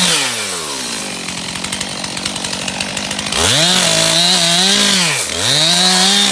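Two-stroke chainsaw running at high revs. It drops to a rattling idle about a second in, then is revved up again after about three and a half seconds, its pitch dipping briefly once near the end.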